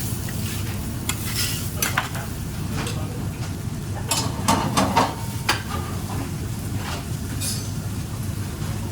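Food sizzling in a frying pan while a utensil stirs and scrapes through it, with sharp clinks against the pan, most of them about four to five and a half seconds in.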